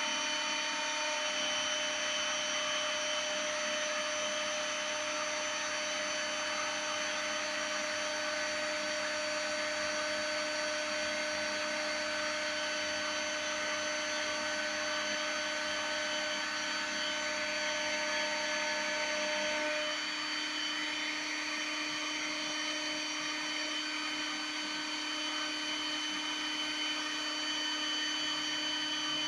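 Spindle of a small CNC router milling a printed circuit board: a steady high-pitched whine with several fixed tones over a hiss. The mix of tones changes about twenty seconds in.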